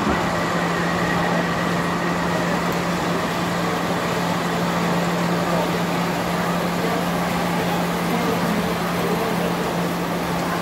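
A steady mechanical hum, low and unchanging, over an even wash of background noise.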